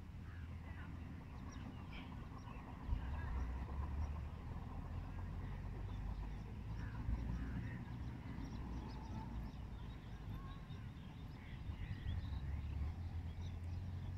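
Birds chirping in short, scattered calls over a steady low rumble that grows louder about three seconds in.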